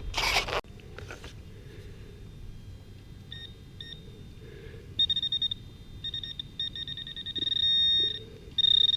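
A brief rush of noise at the very start. Then, about three seconds in, a Garrett AT-series metal detector sounds a high, steady-pitched electronic tone, broken into choppy bursts with longer held tones near the end, as the coil passes over targets in the ground.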